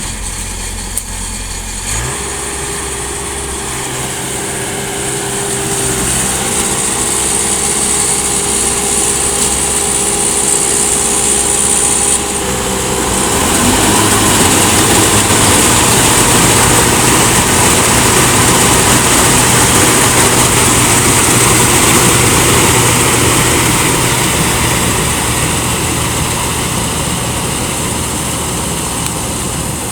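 Rice combine harvester's engine running steadily with a wide mechanical noise, getting louder in steps through the first half and then staying loud.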